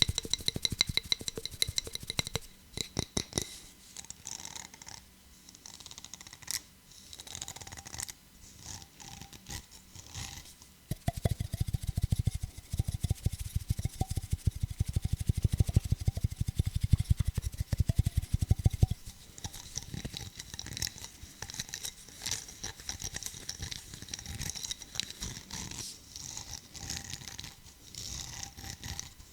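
Fingers tapping and scratching on hard objects close to a microphone. There are quick, irregular taps throughout, with a longer run of fast, louder tapping in the middle.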